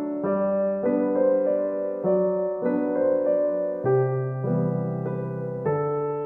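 Solo piano background music: a slow melody with new notes struck about every half second to a second, each ringing on under the next.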